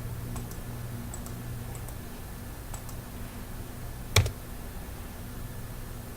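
Computer keyboard typing: a few light key clicks in the first three seconds, then one louder, sharper click about four seconds in, over a low steady hum.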